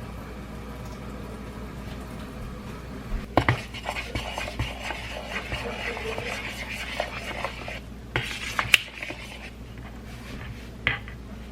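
Dishes and cutlery clinking and knocking together while being washed by hand, starting about three seconds in as a quick run of clatter, then a few separate sharp clinks.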